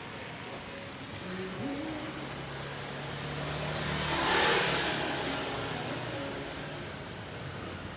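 A motor vehicle passing close by: its engine hum picks up about a second and a half in, and its tyre hiss swells to a peak about four and a half seconds in, then fades away.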